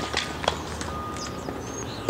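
A few sharp clicks in the first half-second, with birds chirping in short high notes over a steady outdoor background.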